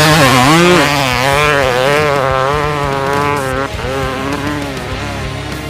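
Dirt bike engine revving up and down over and over, slowly fading.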